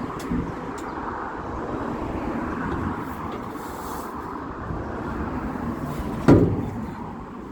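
A steady low rumbling noise, with one loud knock about six seconds in that rings out briefly.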